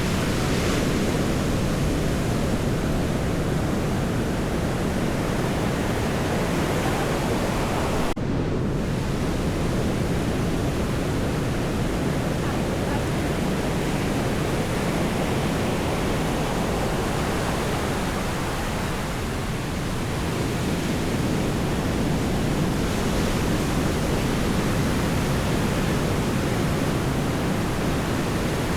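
Steady rush of surf breaking and washing on the shore, an even roar with no pauses, that briefly dips about eight seconds in.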